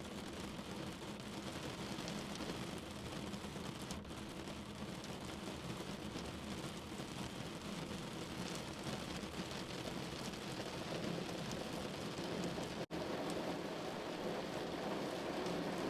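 Steady rain on a window pane, a dense, even patter with no pauses, cut by a momentary dropout about thirteen seconds in.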